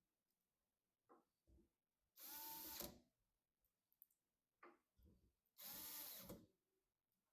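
Small electric screwdriver whirring in two short bursts about three seconds apart, with a few light clicks and knocks between.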